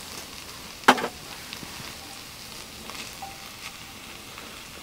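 Sliced mushrooms and onions sizzling in a cast-iron pot while being stirred with wooden chopsticks. There is one sharp knock about a second in and a few lighter taps later.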